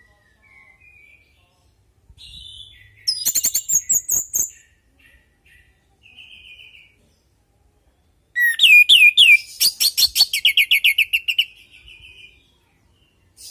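Orange-headed thrush singing: soft short warbled phrases, then a loud burst of rapid high notes about three seconds in and a longer loud phrase of fast trills and quick down-sweeping notes past the middle.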